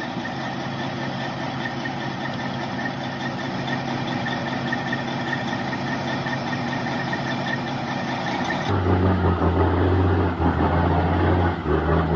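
Heavy logging truck's diesel engine running steadily, straining while the truck is stuck in mud. About two-thirds of the way through, the sound changes abruptly to a louder, deeper engine.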